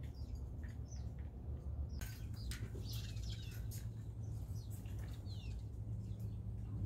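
Wild birds chirping in short, scattered high notes with quick clicks, busiest from about two seconds in, including one downward-sliding note, over a steady low rumble.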